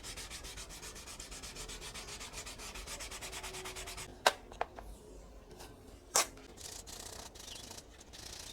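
Fast, even rubbing strokes, as in sanding a surface by hand. They break off about four seconds in, two sharp knocks follow about two seconds apart, and the rubbing resumes near the end.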